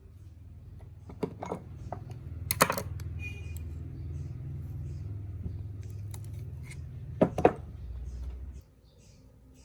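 A low, steady hum that cuts off suddenly near the end, with several sharp clicks and clinks of hard objects being handled, two pairs of them louder.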